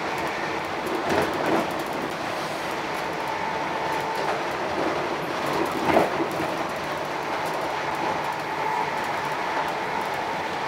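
Northern class 319 electric multiple unit running at speed, heard from inside the carriage: a steady rumble and rush of the wheels on the rails with a faint steady whine, and a few knocks from the wheels on the track, the loudest about six seconds in.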